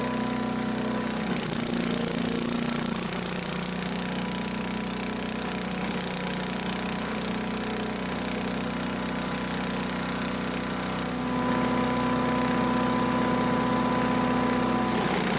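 Earthquake 212 chipper shredder's 212cc gas engine running steadily. Its speed sags for a stretch and picks back up, louder, about eleven seconds in, as it takes and clears a load of leaves.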